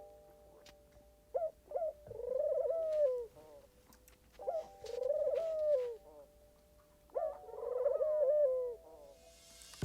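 Pigeon cooing three times, about three seconds apart: each time a short note or two, then a longer wavering coo.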